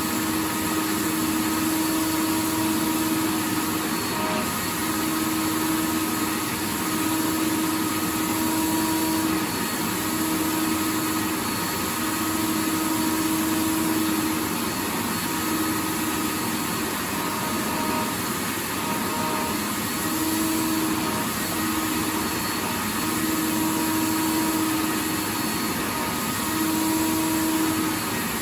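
Vacuum cleaner running steadily: an even rushing of air over a motor hum, with a low tone in it that drops out and returns every second or two.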